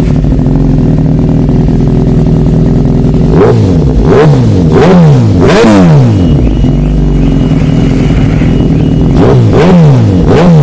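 2011 Suzuki GSX-R sport bike's inline-four engine idling, then blipped through several quick revs a few seconds in. It settles back to a steady idle, and is revved again in quick blips near the end.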